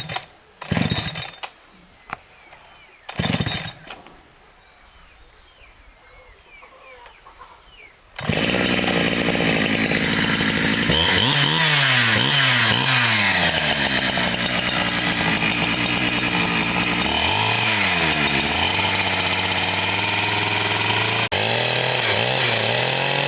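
A few loud knocks with faint birdsong, then about a third of the way in a chainsaw starts up and runs loudly, its engine pitch dropping and recovering several times as it bogs under load and revs back, as when cutting wood.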